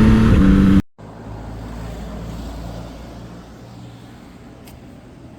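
Yamaha MT-09 SP's three-cylinder CP3 engine running at steady revs, cut off abruptly just under a second in. After the cut only a much quieter low rumble remains, fading away.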